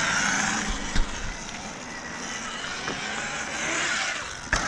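Electric dirt bike riding past: its motor whine rises and falls over tyre and chain noise, with a sharp knock about a second in and another near the end.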